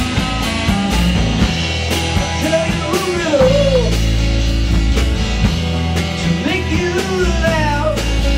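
Live band playing a rock song: a steady drum beat over bass and chords, with a lead melody that slides and bends in pitch twice.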